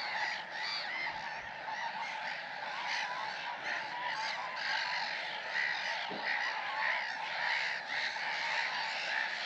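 Dense, continuous chorus of many waterbirds calling over one another, a busy nesting colony in full cry.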